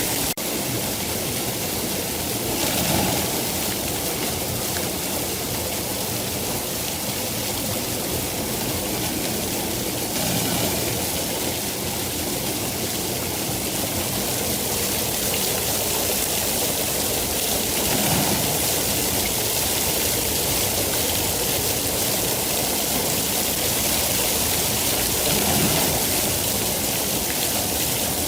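Steady, heavy rainfall as a continuous hiss, swelling slightly about every seven to eight seconds.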